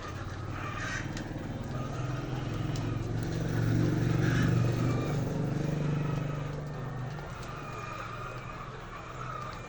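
A motor vehicle's engine running, growing louder to a peak about four to five seconds in and then fading, as of a vehicle passing.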